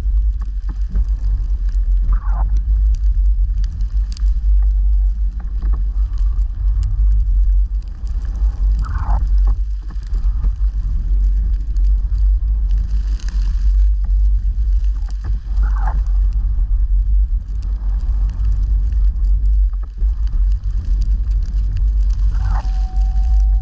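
Snow-clearing vehicle's engine running steadily under load with a deep rumble, and a short high squeak about every seven seconds. A steady whine starts near the end.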